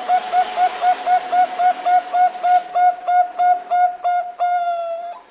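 Zebra dove (Bangkok perkutut) calling: a quick, even run of short cooing notes, about four a second, ending near the end in one longer, slightly falling note.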